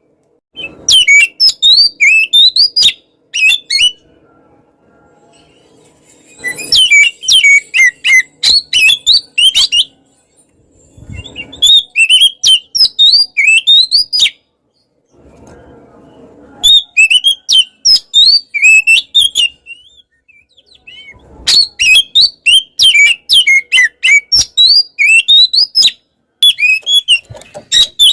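Oriental magpie-robin in full song: loud phrases of rapid, varied whistled and chattering notes, each a few seconds long, about six phrases with short pauses between them.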